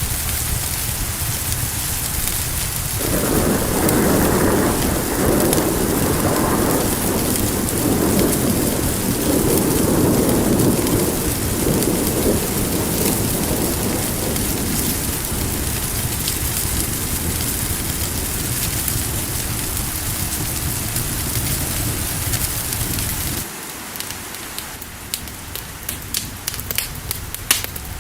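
Steady heavy rain with a long roll of thunder that starts about three seconds in and slowly dies away. Near the end the sound drops suddenly to a quieter bed with sharp crackles, like a wood fire.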